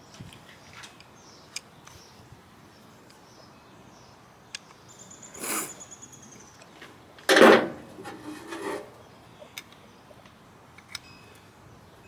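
Workshop handling noises: scattered light clicks and knocks, with a short rushing burst about five and a half seconds in and a louder one about seven and a half seconds in.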